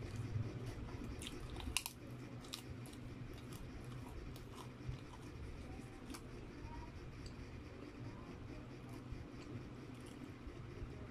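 Close-up chewing and wet mouth sounds of a person eating a mouthful of fried rice, with scattered small clicks and a sharper cluster of clicks a little under two seconds in. A steady low hum runs underneath.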